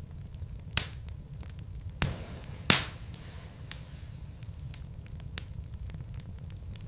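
Wood fire crackling in a fireplace: scattered small clicks and a few louder snaps over a low steady rumble, the loudest snap a little under three seconds in.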